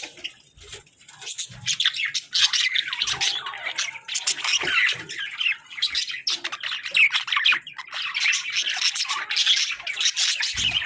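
Hagoromo budgerigars chattering and warbling in a dense stream of rapid chirps and squawks, with a brief lull about a second in. A short low thump sounds near the end.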